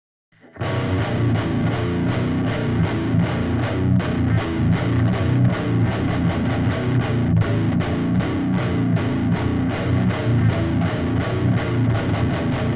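Seven-string electric guitar with a Seymour Duncan Nazgul pickup, played through a Stomp Machines Prometheus high-gain distortion pedal (a Revv G3-style overdrive) into a cabinet impulse response. It plays a heavy, fast, rhythmic metal riff that starts about half a second in and stops abruptly at the end.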